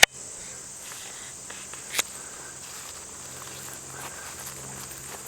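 Steady, high-pitched chorus of insects in the field. There is a sharp click at the start and another about two seconds in.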